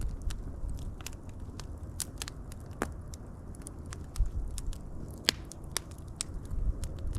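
Wood fire crackling: irregular sharp pops and snaps over a low rumble of burning, with a soft low thump about four seconds in.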